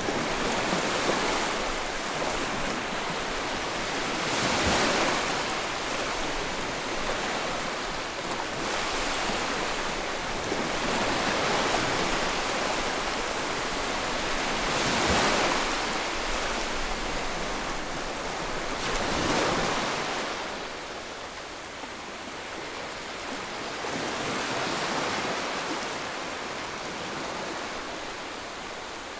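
Sea waves breaking and washing on the shore in a steady hiss, swelling louder about every four to five seconds, strongest near 5, 15 and 19 seconds in.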